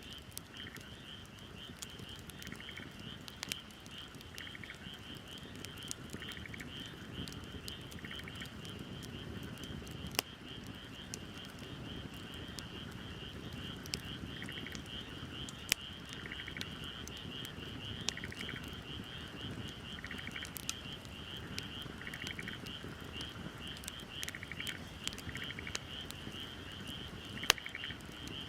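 Wood fire crackling with scattered sharp pops over a low hiss, with frogs calling: a steady fast trill and short pulsed calls about every two seconds.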